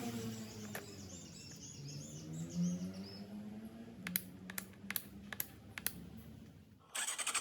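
Motorcycle engine idling with a low, steady hum. Faint high chirps come in the first few seconds, and a run of sharp clicks comes about four to six seconds in.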